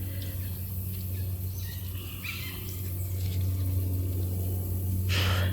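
Steady low hum with a few faint, short bird chirps over it; the owl does not hoot.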